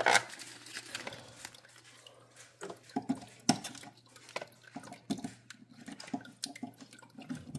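Irregular light clicks and knocks from handling a small space heater and plugging its power cord in, over a faint steady low hum.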